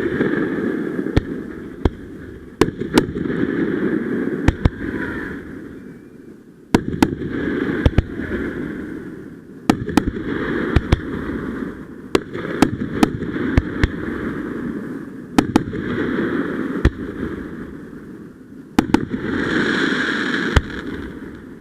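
Fireworks going off: waves of steady fizzing crackle a few seconds long, each starting sharply, with many sharp bangs and pops scattered through them.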